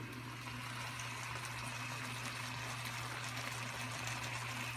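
Vegetables in liquid simmering in a covered pan: a steady soft hiss over a low steady hum.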